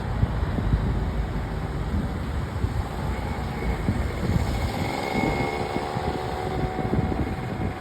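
Motor vehicle passing on the road: steady engine and road noise, with a faint pitched hum joining about halfway through.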